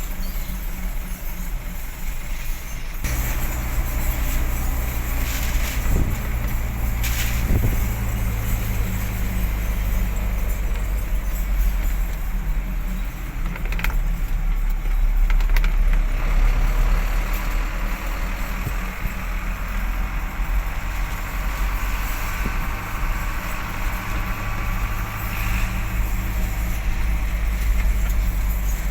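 Truck engine running steadily as the truck drives. The low tone picks up about three seconds in and changes again later, with a few brief knocks along the way.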